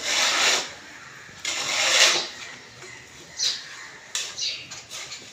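Birds splashing and fluttering their wings in bath water: two rustling bursts, one at the start and one about a second and a half in, followed by several short high chirps.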